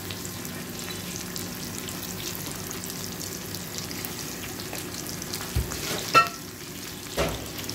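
Eggs sizzling steadily in a frying pan. Near the end there is a low thump and then two sharp clicks.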